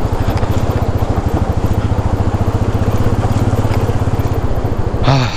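Royal Enfield Meteor 350's single-cylinder engine running steadily at low revs with an even beat as the bike creeps across a shallow, stony stream crossing.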